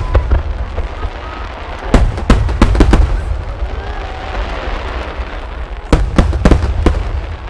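No. 10 (30 cm) aerial firework shells bursting overhead with loud booms. There is a quick run of about four bursts about two seconds in and another run of about five near the end, over a steady low rumble.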